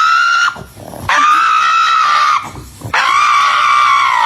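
A pet's long, high-pitched screaming cries, three in a row, each held steady for about a second with short breaks between.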